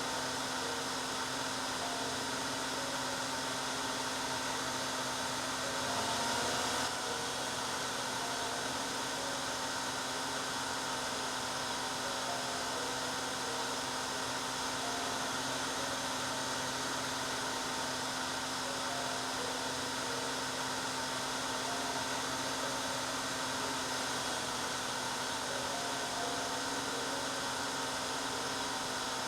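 Hair dryer running steadily: an even rush of air over a constant motor hum, swelling briefly and shifting slightly in pitch about six seconds in.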